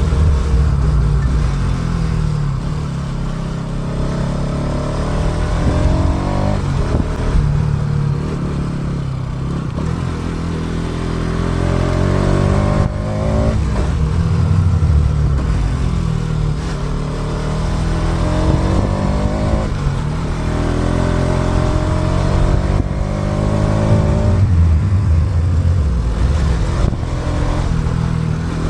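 Motorcycle engine running under way. Its pitch climbs and drops again several times as the throttle opens and closes, heard through an action camera's built-in microphone.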